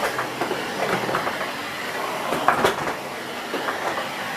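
Miele S6 cylinder vacuum cleaner with its 2000 W motor, running steadily, with a few knocks and rattles about halfway through.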